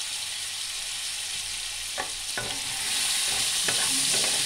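Cubed potatoes sizzling steadily in hot mustard oil in a kadai. About two seconds in, a spatula starts stirring them, with clicks and scrapes against the pan, and the sizzle grows a little louder as they are turned.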